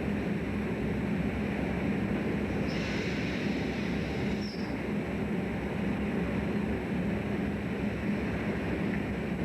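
Steady engine and machinery noise aboard a fishing trawler, with a constant low hum. A brief higher hiss rises over it about three seconds in and stops about a second and a half later.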